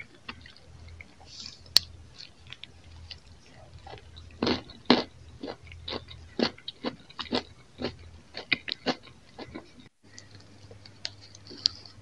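Close-miked chewing of a bite of bread roll and pickle, with sharp, crisp chewing strokes. A run of louder strokes, about two a second, comes from about four and a half seconds in to nine and a half seconds. The sound drops out briefly near the end.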